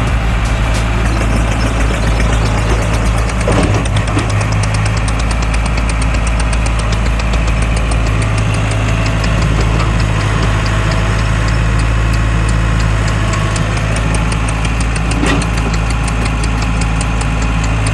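Tractor engine running steadily at low revs, with a fast, even ticking over its low hum.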